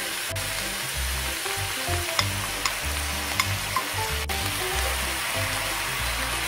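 Squid and vegetables stir-frying in a wok, a steady hiss of sizzling, with a few short clicks around the middle. Background music with a stepping bass line plays underneath.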